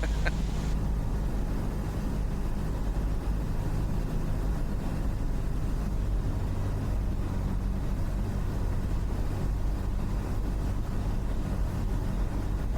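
Cessna 172's piston engine and propeller running steadily at reduced power on final approach with full flaps, a steady low drone heard from inside the cabin.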